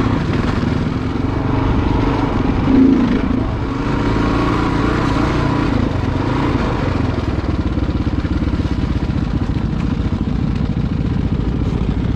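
Adventure motorcycle engine running, its pitch rising and falling through the first half with a loud peak about three seconds in, then running steadily.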